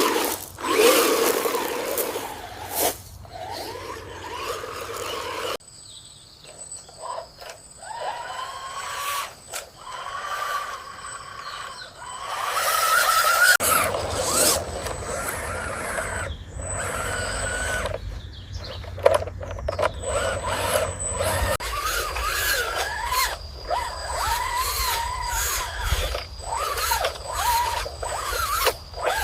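Small electric motors and gearboxes of remote-control construction vehicles whining, the pitch rising and falling as they speed up and slow down, with some scraping. The background changes abruptly several times.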